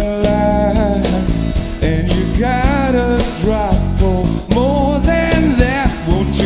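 Live rock band playing a song: guitars, bass and drums, with a sliding melodic lead line on top.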